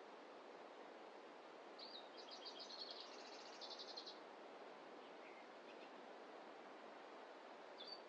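A small songbird sings a rapid trill of high notes about two seconds in, lasting about two seconds, with a faint chirp after it and one short high call near the end, over a steady faint hiss of forest ambience.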